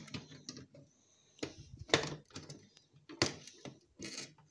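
Separate sharp clicks and knocks, about four of them, from tools and loose parts as a DVD player's circuit board is cut free and handled.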